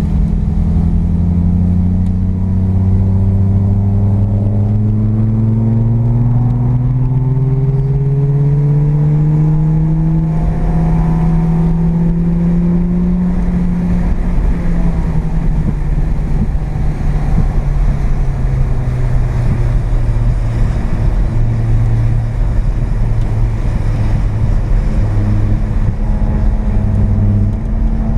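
Carbureted 12A rotary engine of a first-generation (FB) Mazda RX-7 heard from inside the cabin on track. It pulls steadily up through the revs for about fourteen seconds, then runs at lower revs that rise and fall.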